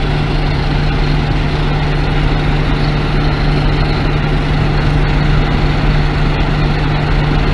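DON-1500 combine harvester running stationary at working speed with its threshing and cleaning gear engaged: a loud, steady diesel and machinery drone with a constant low hum. The cleaning fan is blowing dust and trash out through the opened sieves.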